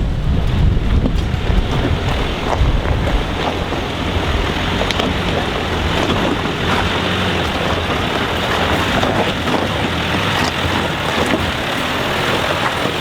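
A four-wheel-drive vehicle's engine running as it climbs a steep dirt track, with wind buffeting the microphone.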